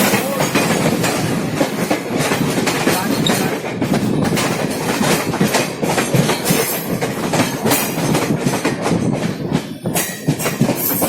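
Passenger train running at speed, heard from inside the coach: a steady rumble with a quick clatter of wheels over rail joints, dipping briefly near the end.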